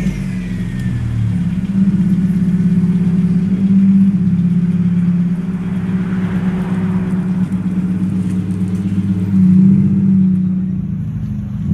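Hyundai Elantra's engine and exhaust running at a steady low idle, with slight swells about four seconds in and again near the end as the car creeps forward.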